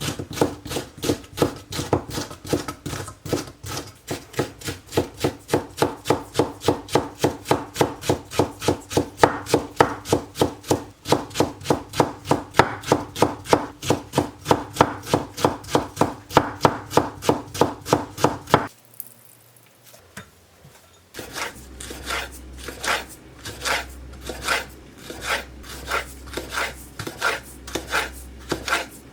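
Knife chopping food on a wooden cutting board in quick, even strokes. The chopping stops for about two seconds about two-thirds of the way through, then starts again.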